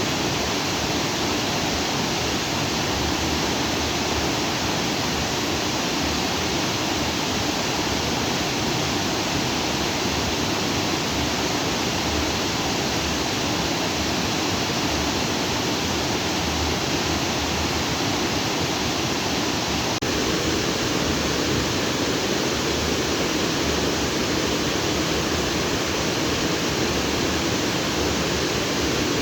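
Stream water rushing steadily over rocks, a constant full rushing that grows slightly deeper about two-thirds of the way in.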